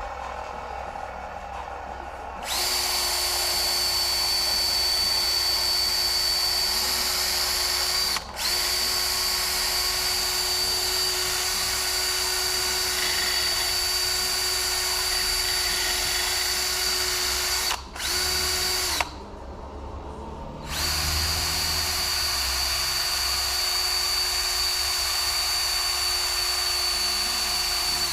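Electric drill running in long steady stretches with a high whine, briefly stopping about eight seconds in and again near eighteen seconds, then pausing for about two seconds before running again.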